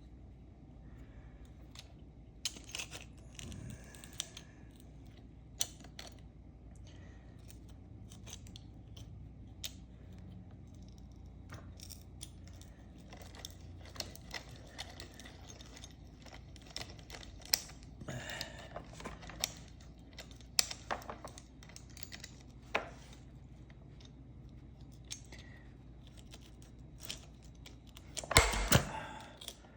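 Chainsaw chain being sharpened by hand: scattered light metallic clicks and short scrapes as the sharpening tool works the cutters and the chain links shift, with a louder scrape near the end.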